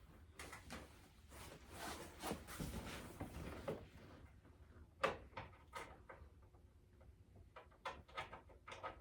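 Tools and parts being handled during work under a car's dash: rustling and scraping for the first few seconds, then single knocks about five and six seconds in and a quick run of clicks and knocks near the end.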